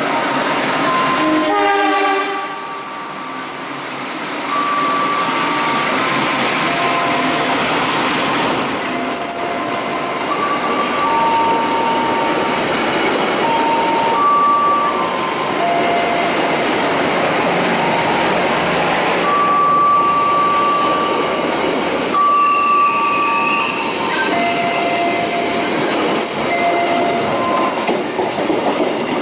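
A passenger train passes close by. Near the start, a diesel locomotive's horn sounds, then comes the steady rumble and rattle of carriages rolling over the rails, with short high wheel squeals that come and go.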